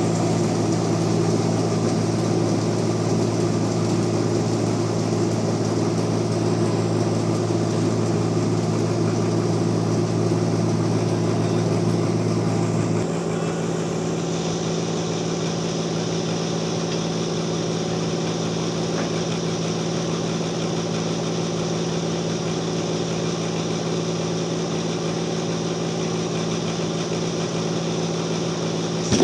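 Bandsaw mill running steadily with a hum of several fixed tones; about thirteen seconds in the sound changes, the lowest tone dropping out and the running growing a little quieter.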